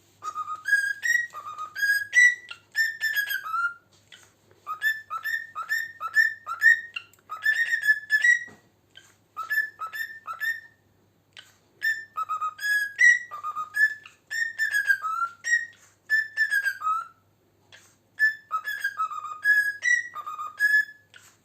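Pet cockatiel whistling a learned tune: runs of short, clear melodic whistled notes, with brief pauses about four, eleven and eighteen seconds in.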